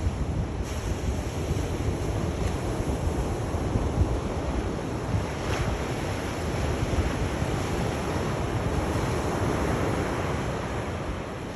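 Sea waves washing onto a shore in a continuous rushing wash, with a low rumble of wind on the microphone beneath it.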